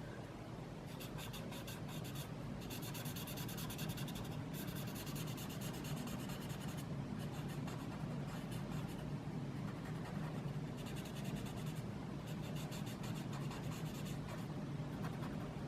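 Felt-tip pen scratching on sketch paper in repeated spells of quick, short strokes, each lasting a second or two with brief pauses between them.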